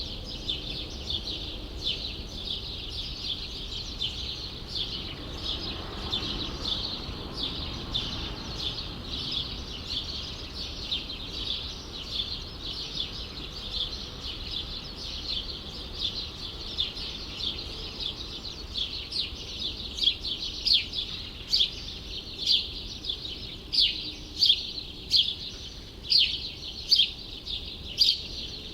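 Small birds chirping continuously in a dense chorus. In the last third, single loud chirps stand out about twice a second, over a faint low steady rumble of city background.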